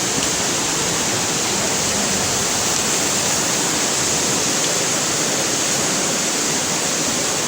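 Waterfall running with a steady, even rush of water.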